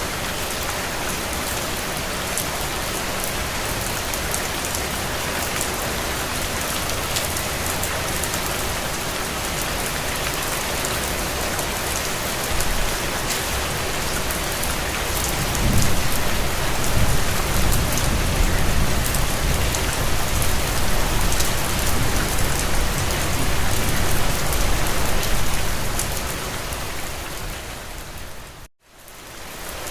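Steady heavy rain falling on a window, with a low rumble of distant thunder that comes in about halfway through and lasts around ten seconds. Near the end the sound drops out suddenly to silence for a moment and fades back in.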